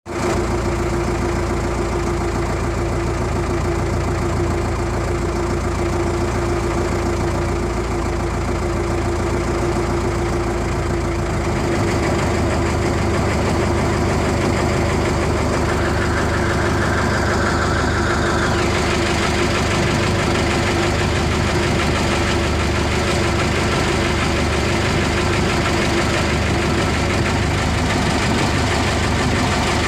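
Fishing boat's inboard engine running steadily, with a change in its tone about twelve seconds in.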